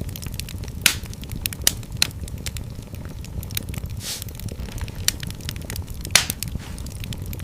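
Wood fire crackling in a fireplace: sharp, irregular pops and snaps over a steady low rumble of the flames, with the loudest pops about a second in and about six seconds in, and a longer crackle about four seconds in.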